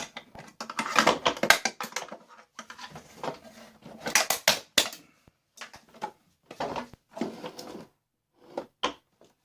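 Hard plastic parts of a vacuum cleaner knocking, clicking and rattling as it is pulled apart by hand, in irregular bursts.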